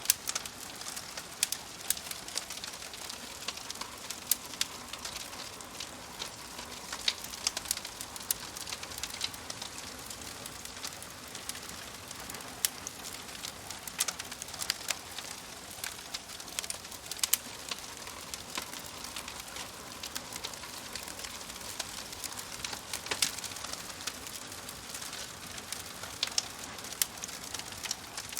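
Wood fire crackling steadily, with frequent irregular sharp pops and snaps over a soft hiss.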